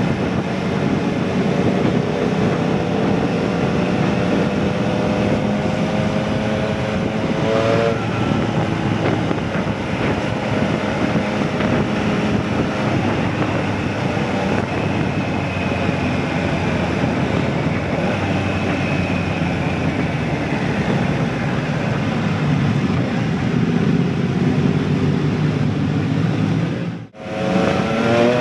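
Motorcycle engine and exhaust under way: the pitch climbs as the bike accelerates during the first eight seconds or so, then it runs fairly steadily over a rushing noise. It cuts out briefly near the end, then the revs climb again.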